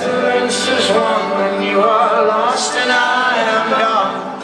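Live folk-rock band music with voices singing, loud and steady, dipping slightly near the end.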